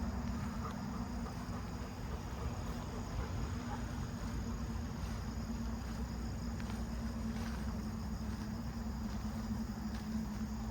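Flies buzzing steadily close by, a low continuous drone.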